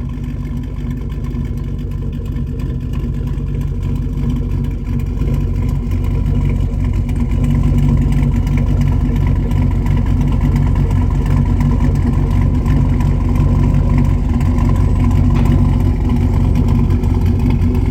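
Cammed 5.3 L LS4 V8 of a 2008 Chevrolet Impala SS running through a full 3-inch straight-pipe exhaust, a loud, steady engine note that grows gradually louder.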